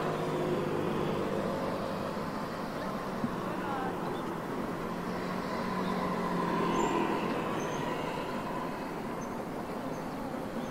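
Keihan electric train running by, a steady rumble with a humming tone that swells to its loudest a little past the middle.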